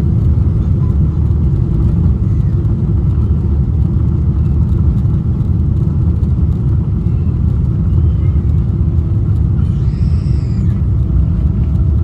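Steady low rumble inside the cabin of a Boeing 777-300, from its engines at takeoff power and the rushing air during the takeoff and initial climb.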